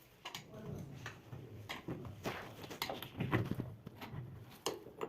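Scattered light knocks, clicks and scrapes at irregular intervals, the sound of tools and parts being handled on a worktop.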